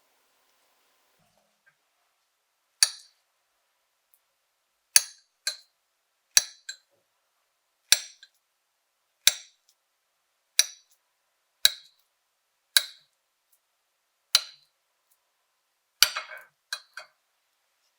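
Cutlery clinking against a bowl: about a dozen sharp, briefly ringing clinks, roughly one a second, starting about three seconds in, with a quick run of clinks near the end, as the porridge ingredients are mixed.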